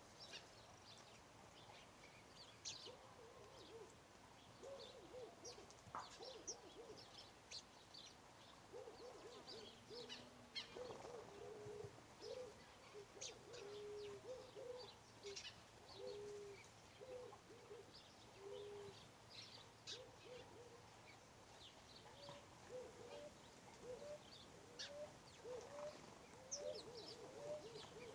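Birds calling faintly: low hooting notes repeated in short series, a few longer held notes in the middle, over scattered high chirps from other birds.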